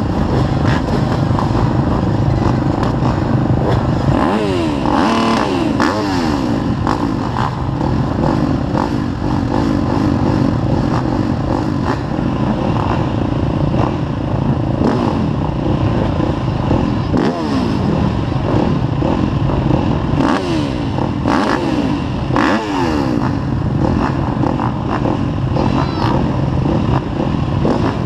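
Motocross dirt bikes racing, several engines overlapping, revving up and down repeatedly as they pass and work the throttle.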